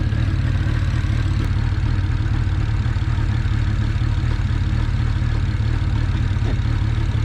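A big single-turbo BMW 335i's turbocharged inline-six idling steadily with a slightly uneven pulse: it has a misfire that they suspect comes from one of the ignition coils acting up.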